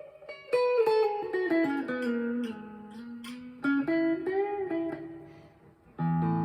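Harley Benton SC-DLX electric guitar, coil-split on both pickups, played clean and bright through a Boss Katana MKII amp with a little reverb. A picked single-note phrase runs down in pitch, with a few notes bent, and dies away before a new chord rings out near the end.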